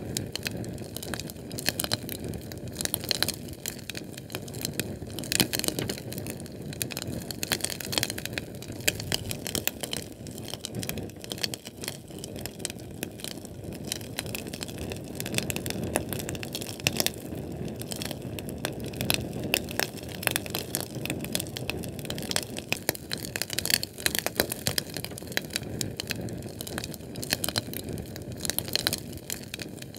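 Crackling flame of a Sterno canned-fuel burner: a steady hiss thick with quick sharp pops and snaps, some louder than others, with no letup.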